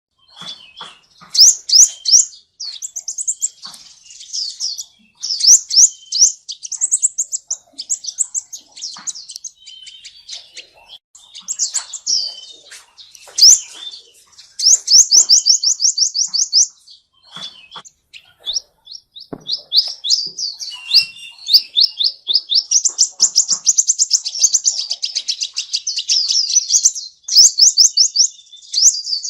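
A songbird singing in bursts of rapid, high, sharp chirps, many to the second, each burst a second or two long with short gaps between, and a longer unbroken run of chirps near the end.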